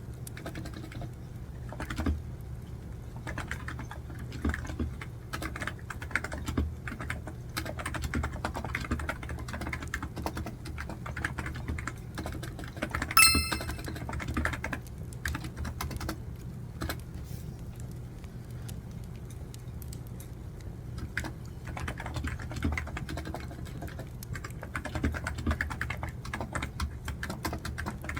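Typing on a computer keyboard in irregular bursts of key clicks over a steady low hum. About halfway through, a short ringing chime sounds once.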